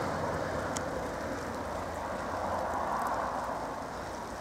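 Steady road noise of a vehicle driving on a slushy, snow-covered road: a hiss of tyres over wet snow with a low rumble underneath, easing slightly toward the end.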